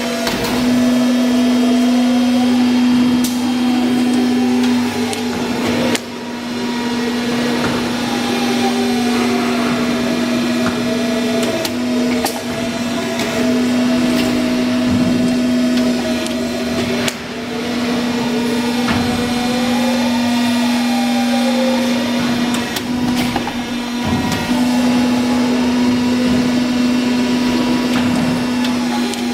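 BLM B42 CNC machine running: a steady motor hum with a higher whine that rises and falls as its drives speed up and slow down, and a few sharp clicks.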